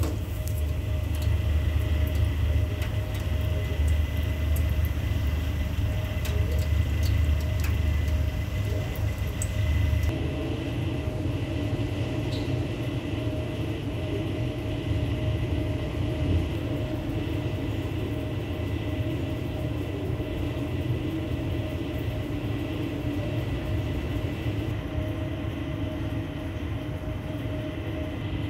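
Steady mechanical hum with a low rumble and a couple of constant tones, like a motor running; the low rumble eases about ten seconds in.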